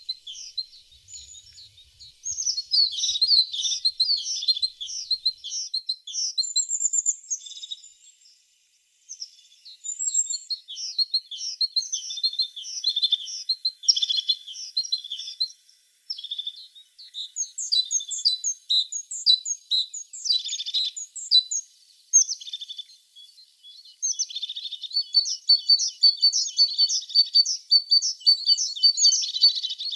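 Tit singing: fast runs of high, repeated chirps and trills, with brief pauses about eight and sixteen seconds in.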